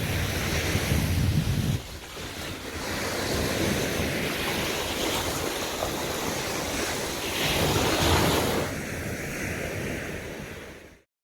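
Sea waves washing onto the beach, with wind rumbling on the microphone for the first couple of seconds; the surf swells twice, then fades out to silence near the end.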